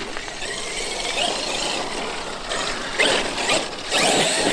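Traxxas X-Maxx electric RC monster truck driving off, its motor and geared drivetrain whining, the pitch rising and falling as the throttle is worked, with a sharp click about three seconds in.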